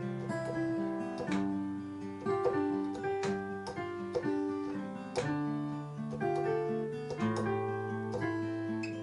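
Acoustic guitar strumming chords, with notes ringing between strums about once a second; no singing.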